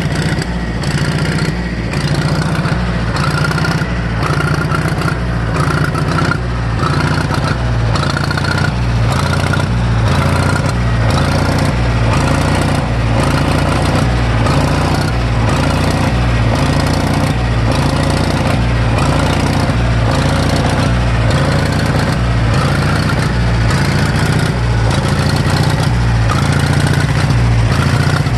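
1964 John Deere 1010 tractor's four-cylinder gas engine running steadily with an even low pulsing beat, warming up after a cold start.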